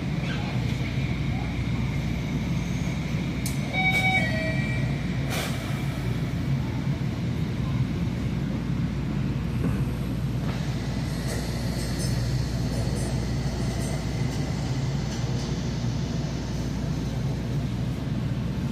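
Light-rail train running, heard from inside the car: a steady low rumble with a faint high whine, and a few short clicks and rattles about four to five seconds in.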